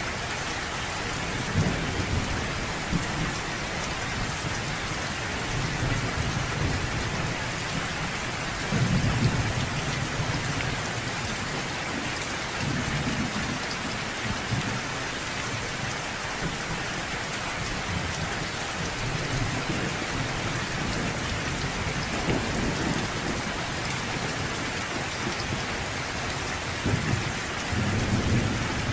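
Thunderstorm: steady heavy rain hissing without a break, with low rolls of thunder rumbling in several times, loudest about nine seconds in and again near the end.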